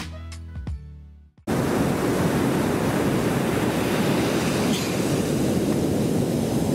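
Background music fades out, and about a second and a half in a steady rush of breaking ocean surf cuts in abruptly, with wind.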